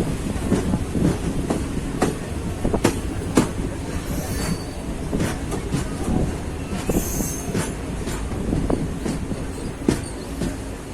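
Train running over a railway bridge: a steady low rumble with irregular clanks from the wheels and cars, and brief high wheel squeals about four and seven seconds in.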